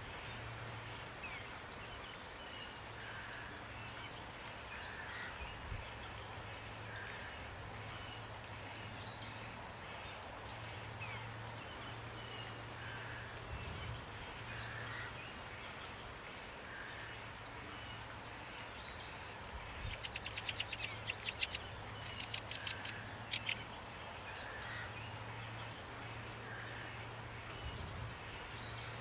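Steady rain hiss with songbirds chirping over it in short, high, falling calls, and a rapid rattling trill about two-thirds of the way through.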